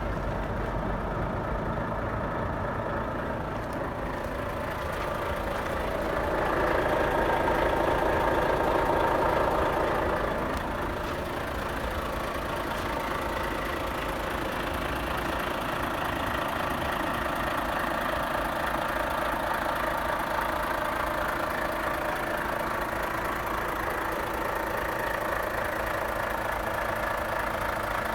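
Volvo FH500 tractor unit's 13-litre straight-six diesel idling steadily. It swells louder for about four seconds around a quarter of the way in, then settles back to idle.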